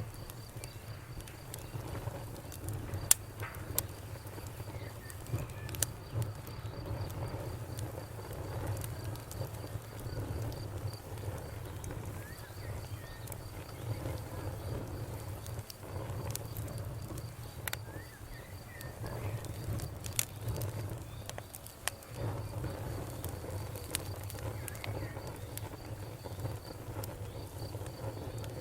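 Campfire burning, with a low rumble under scattered sharp crackles and pops of burning wood; one louder pop about three seconds in.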